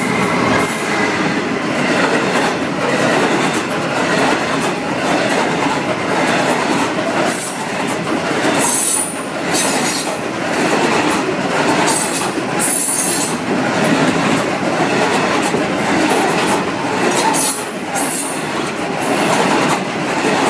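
Loaded coal freight train, hauled by a Class 66 diesel locomotive, passing close by: a steady rumble and clatter of wagon wheels on the rails, with short high wheel squeals every few seconds.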